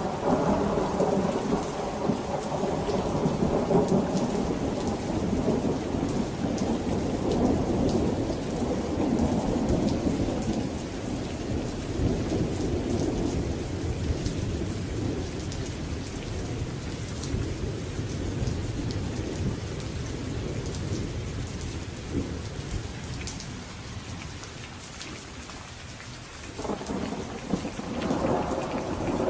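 Steady rain pattering with rolling thunder: a long, deep rumble that slowly fades over the first half, and a fresh roll of thunder building near the end.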